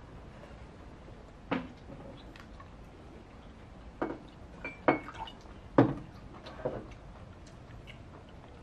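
Beer poured from a bottle into a mug, with a few sharp knocks and clinks of bottle, mug and tableware on a wooden table; one clink rings briefly just before the middle.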